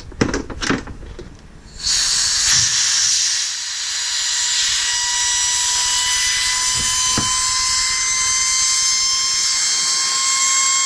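A few sharp knocks, then about two seconds in a loud steady hiss of pressurised nitrogen venting from the air conditioner's refrigerant lines, releasing the test pressure after the leak check. A thin whistle rides on the hiss, its pitch creeping slightly upward.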